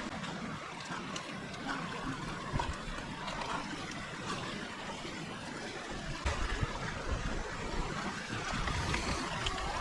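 Running water from a shallow mountain creek, a steady rushing. A low rumble joins about six seconds in.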